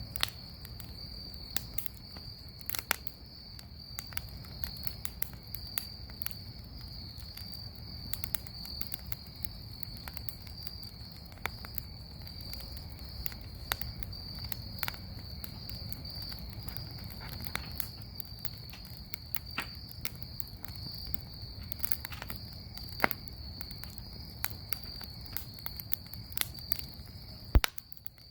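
Bonfire crackling with sharp pops scattered throughout, one louder pop near the end, under a steady high insect trill.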